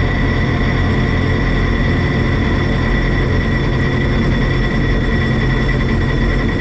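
Combine harvester running steadily while harvesting wheat: a constant deep engine rumble with a steady high whine from the machinery.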